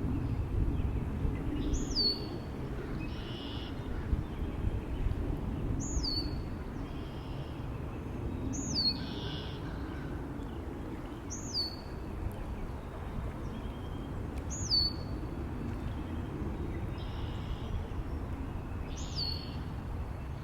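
A bird repeating a short, sharp, high call that drops steeply in pitch, six times at intervals of three to four seconds, with fainter calls of other birds between. A steady low wind rumble runs beneath.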